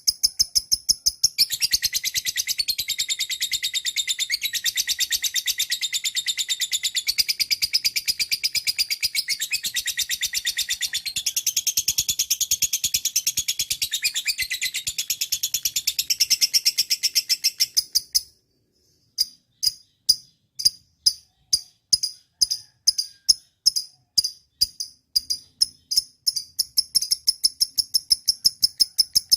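Lovebird singing: a long, rapid, unbroken run of high chattering chirps. After a brief break near two-thirds of the way in, it gives separate sharp chirps, about two or three a second, that crowd closer together near the end.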